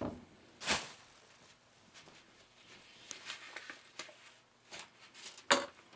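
Light handling noises: a few scattered clicks and knocks, the sharpest just under a second in and another near the end, with faint small ticks in between.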